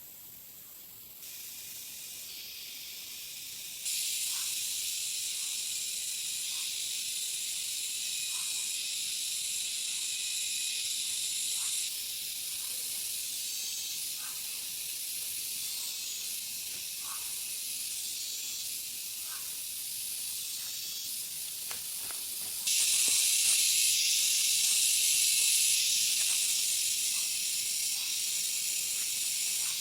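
A steady, high-pitched hiss that jumps abruptly in loudness a few times, with faint short chirps or ticks within it.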